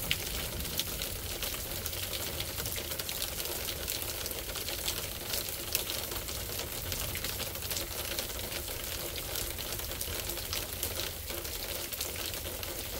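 Steady rain falling, with many individual drops ticking close by over the hiss of the downpour.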